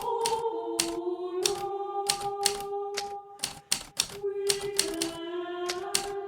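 Hermes Baby portable manual typewriter being typed on, with its keys striking in an irregular run of about two or three clicks a second. Soft background music with slow, held notes plays underneath.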